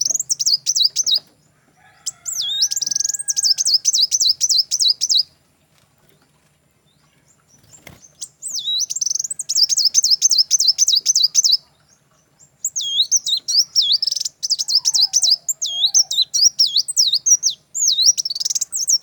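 A songbird singing loud bouts of fast, repeated high chirping notes, about six a second, each bout lasting one to several seconds with short pauses in between. A faint low hum runs underneath.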